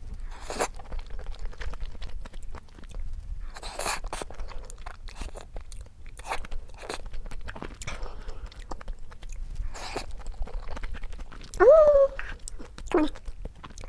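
Chewing and mouth sounds of someone eating mapo tofu rice and ramen, with small clicks of a spoon against the dishes. A short rising tone stands out, the loudest moment, near the end.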